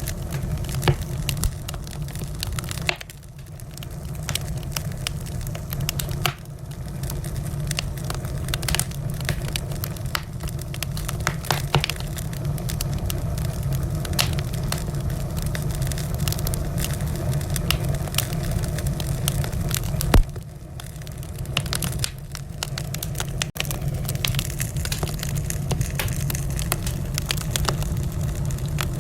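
Wood fire burning in a fireplace: a steady low rumble of flame with irregular sharp crackles and pops, one louder pop about twenty seconds in.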